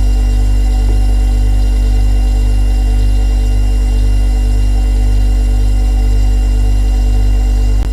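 Refrigerator running with a steady, deep electrical hum and a few higher steady tones above it. A small click comes near the end, after which the level drops slightly.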